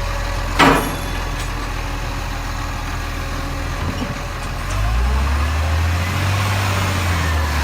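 Garbage truck's diesel engine idling, with a short loud burst about half a second in; about five seconds in the engine note rises and gets louder, then holds steady.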